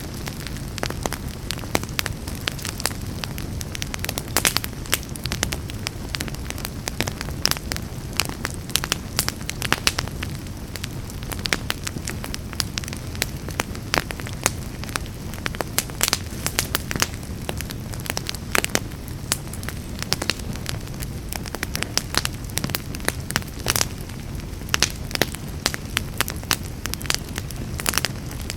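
Wood fire burning in a fireplace: a steady low rumble of flame with many irregular sharp crackles and pops.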